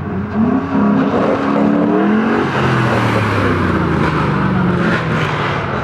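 Performance car's engine revving hard, pitch rising sharply about half a second in and again around two seconds, then settling lower, over a loud rush of exhaust noise.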